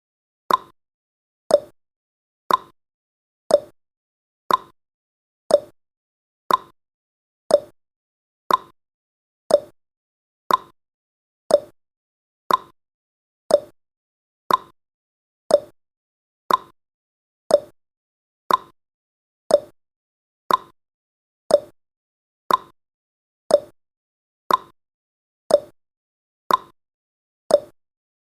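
Countdown timer's ticking sound effect: a short, sharp clock-style tick once every second, each dying away quickly, in an even unbroken rhythm.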